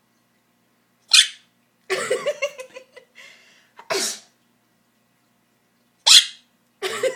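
Pet talking bird mimicking a sneeze: three short, sharp "achoo"-like bursts, with a stretch of chattering, mew-like calls between the first two.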